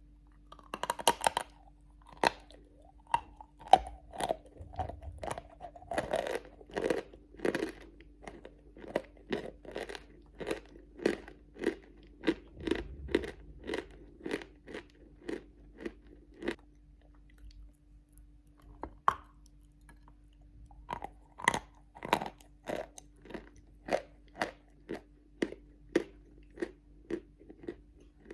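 A person bites into a piece of hard, grey-blue natural chalk, then chews it with dull, regular crunches, about two a second. The chewing pauses for a few seconds after the middle and resumes near the end. A faint steady hum sits underneath.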